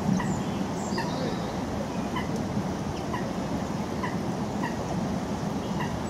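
A bird calling in a steady series of short notes, about two or three a second, with a few higher chirps about a second in, over a steady low rumble.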